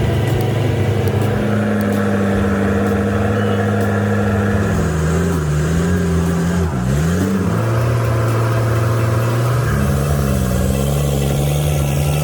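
Heavy truck's diesel engine running steadily under load. Its pitch dips and rises a few times around the middle and again near the end as the throttle changes.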